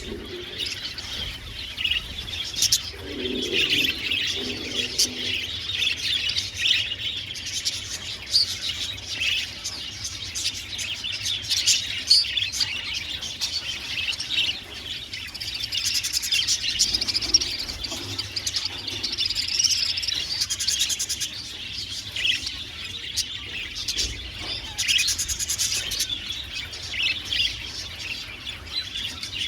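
A colony of budgerigars chattering continuously, with many overlapping short chirps and warbles.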